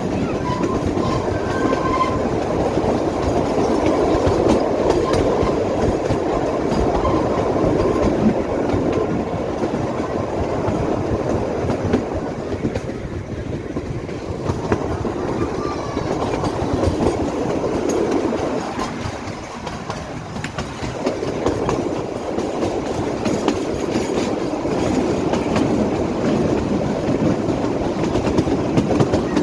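Narrow-gauge Kalka–Shimla toy train running, its wheels clicking over the rail joints under a steady rumble that eases off twice for a moment.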